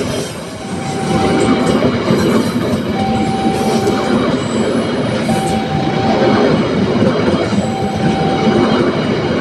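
A train passing close by, a loud continuous rumble of wheels on rails with some wheel squeal. Over it a single steady tone sounds for about a second, repeating about every two seconds.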